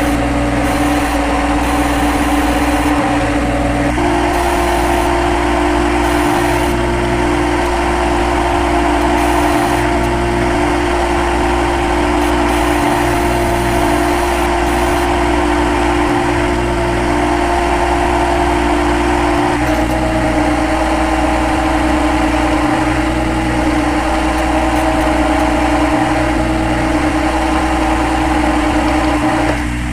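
CNC lathe running steadily with a loud motor hum and whine. The pitch steps up about four seconds in and drops back near two-thirds of the way through as the spindle speed changes.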